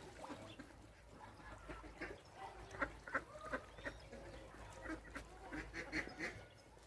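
Ducks and other waterfowl calling: many short, overlapping calls, coming in louder clusters about three seconds in and again near the end.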